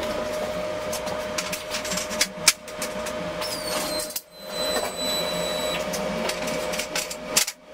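Knocks and clanks of laser-cut quarter-inch steel table parts being handled, with one sharp clank about two and a half seconds in. A steady hum runs underneath, and a thin high ringing tone dips in pitch and holds for a couple of seconds in the middle.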